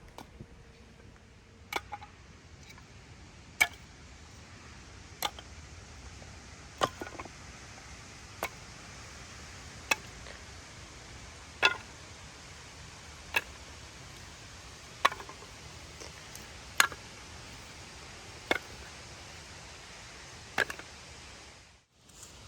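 Sharp single knocks repeating at an even pace, about one every second and a half to two seconds, over a steady background hiss.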